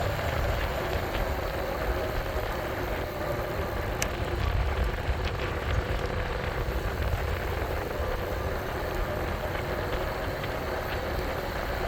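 Steady wind rumble and road noise on the microphone of a moving e-bike, with a few faint ticks about four seconds in.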